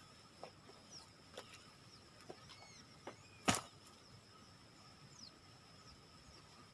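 Faint forest ambience: a steady high-pitched drone with a few short bird-like chirps and scattered light clicks, and one sharper click about halfway through.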